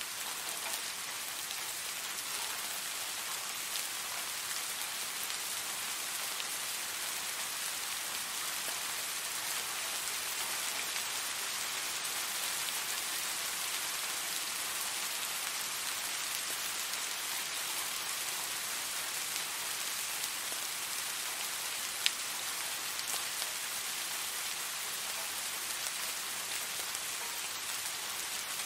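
Soft rain falling steadily: an even hiss of many small drops. One sharper single drop tick stands out about three quarters of the way through.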